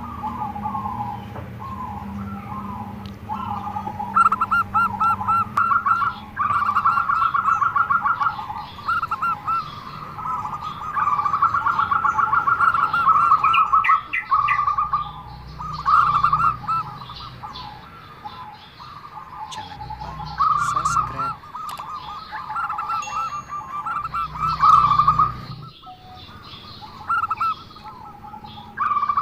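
Zebra dove (perkutut) cooing in repeated trilled phrases with an unusual voice, a few seconds each with short breaks between. Fainter chirps from other small birds sound higher up.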